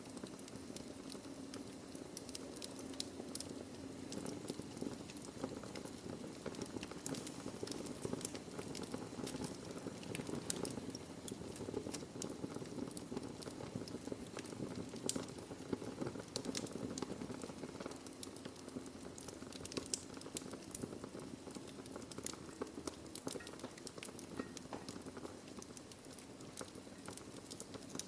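Wood fire burning in a fireplace: dense crackling with many short, sharp pops of burning logs over a steady low rush of flame.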